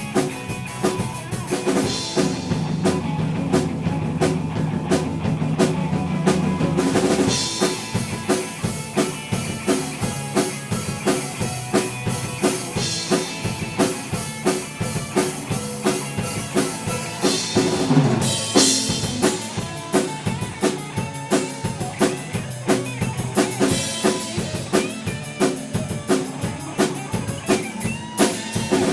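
Live rock band playing a song: a drum kit keeping a steady, quick beat with a crash cymbal every few seconds, over sustained pitched band instruments.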